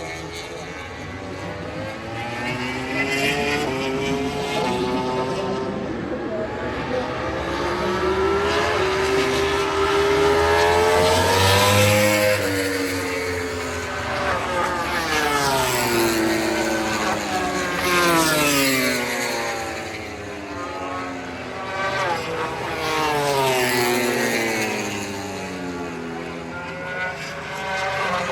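Several MotoGP racing motorcycles running one after another, their 1000 cc four-cylinder engines revving up and falling in pitch as they pass, brake and shift. The sound is loudest about halfway through.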